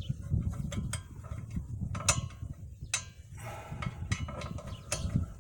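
Hand ratchet clicking in uneven strokes as the rear air shock's lower mounting bolts are tightened down.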